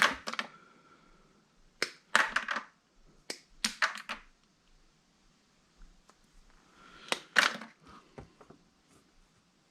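Scrap parts from a dismantled angle grinder clattering and knocking as they are handled and tossed aside, in short bursts of a few knocks each, about four bursts a couple of seconds apart.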